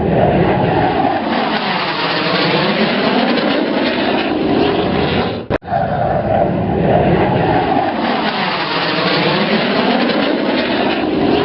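Propeller airplane engines running loud and steady, with a brief break about halfway through before the same sound resumes.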